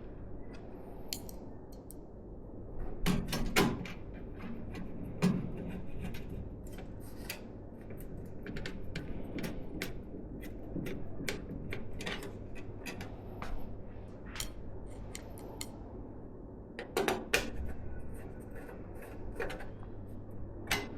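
Irregular clicks, taps and light knocks of hard plastic and metal parts being handled during PC assembly, with a few louder knocks about 3, 5 and 17 seconds in, over a steady low hum.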